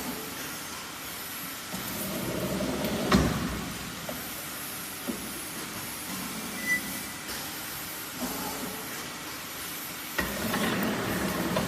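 Refrigerator tube serpentine bending machine running with a steady hiss and a few sharp mechanical knocks; the loudest knock comes about three seconds in and another just after ten seconds, each inside a louder stretch of noise.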